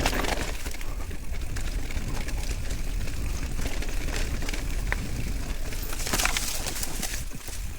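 Riding a bicycle: steady wind rumble on the microphone with scattered clicks and rattles from the bike over a rough road, the rattling busiest a little after six seconds in.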